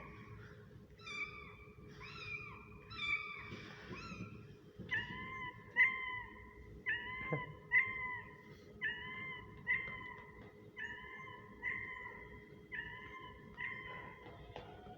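High-pitched kitten meows repeated about once a second; the calls from about five seconds in are near-identical to one another.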